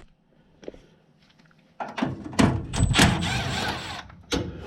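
Knocks and scraping for about two seconds, starting about two seconds in, loud against a quiet start.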